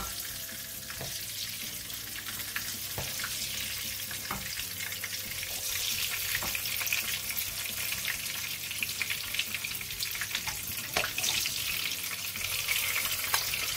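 Eggplant slices frying in hot oil in a wok, a steady sizzle that swells now and then. Occasional clicks come from metal tongs against the pan as the fried slices are lifted out.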